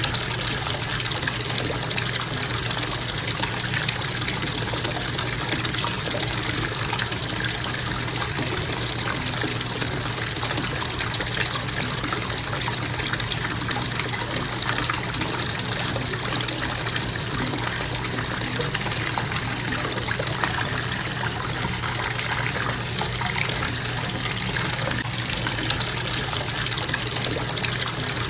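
Bathtub faucet running, a steady stream of water pouring into the tub with a constant splashing rush.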